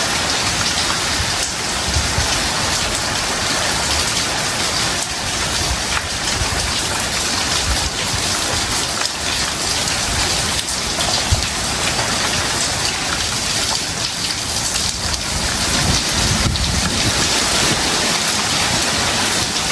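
Heavy tropical rain falling steadily, with a dense, even hiss of drops. Low rumbles rise under it in the last few seconds.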